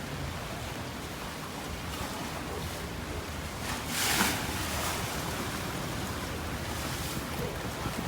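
Storm wind and choppy river water around a sailboat, a steady rushing noise with a low rumble of wind on the microphone, and a brief louder rush about halfway through.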